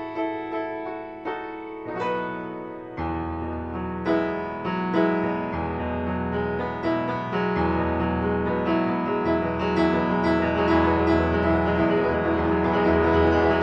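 Background piano music: a melody of single struck notes, joined about three seconds in by low sustained bass notes, growing fuller towards the end.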